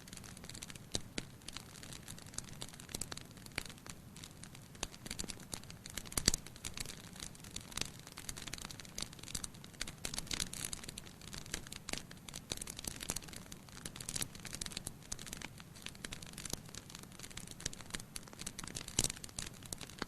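Wood fire burning in a fireplace: logs crackling with a dense run of irregular snaps and pops over a soft hiss, with louder pops about six seconds in and again near the end.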